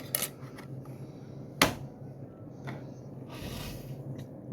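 Small plastic diecast accessory parts and their packaging being handled: a few light clicks, one sharp click a bit over a second and a half in, and a short rustle of packaging near the end.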